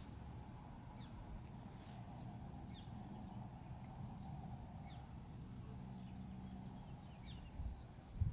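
Faint bird chirps, a handful of short, quick downward-sliding notes a second or two apart, over a low steady background hum.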